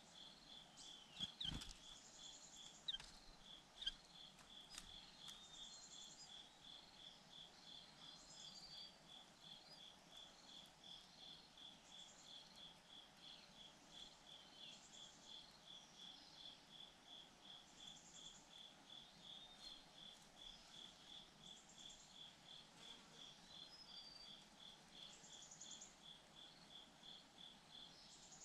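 Faint insects chirping: a steady pulsing chirp about twice a second, with a higher trill coming back every couple of seconds. A few sharp clicks stand out in the first four seconds.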